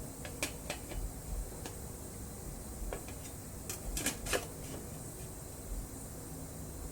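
Hand-operated sheet-metal stretcher working the flange of a repair panel to curve it: irregular sharp metal clicks and knocks, with a cluster of louder ones about four seconds in.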